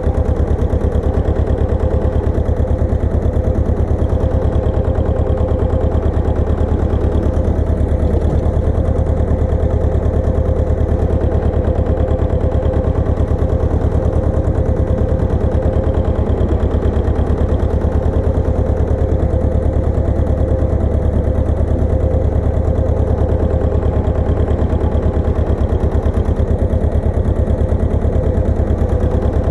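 Engine of a Pasquali 980 EX compact tractor running steadily at an even speed, with a fast, regular beat of firing strokes.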